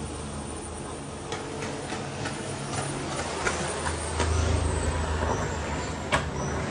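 Gunshots, about a dozen irregular sharp cracks spread over several seconds, over a steady low engine rumble that swells about four seconds in.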